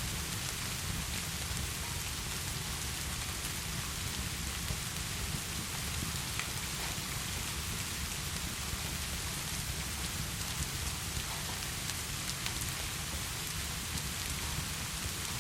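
Heavy rain falling steadily, an even hiss with a constant low rumble beneath it and scattered faint ticks of individual drops.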